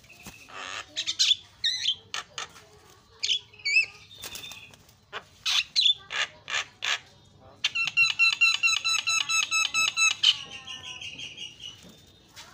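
Javan myna singing a varied string of whistles, harsh notes and clicks, then a fast, even rattling series of about nine notes a second near the end, closing on a short held note.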